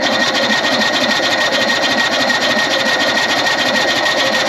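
A motor running steadily with a constant high whine. It starts abruptly and cuts off abruptly.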